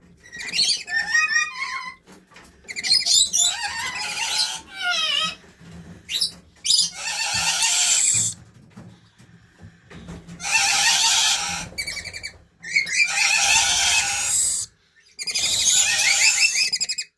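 Green parrot calling: a run of whistles and gliding chattering notes, then several long harsh screeches of a second or two each.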